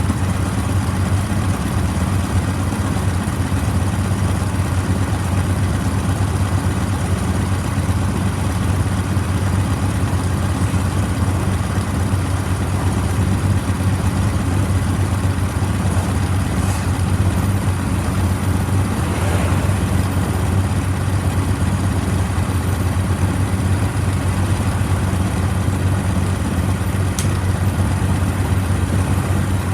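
Kawasaki W650's air-cooled parallel-twin engine idling steadily.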